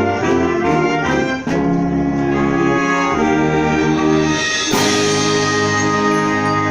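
Symphonic wind band playing sustained brass chords that shift every second or so, with short percussion strikes in the first second and a half and a loud percussion crash near the end.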